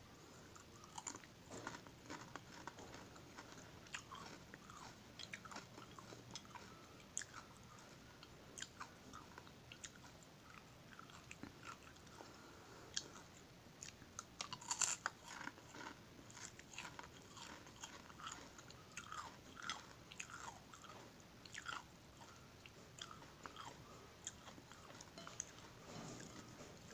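Close-up crunching and chewing of crispy fried dried anchovies (dilis): many sharp crackles as the brittle fish are bitten and chewed, with the loudest, densest crunching about halfway through.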